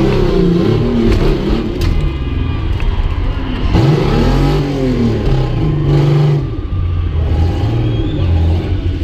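Ford Ranger's engine revving up and down again and again under load, heard from on board the truck, with a sharp knock about two seconds in.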